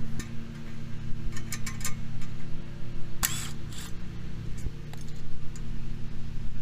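A few light metallic clicks and taps of parts and tools being handled, one sharper clink with a brief ring about three seconds in, over a steady low hum.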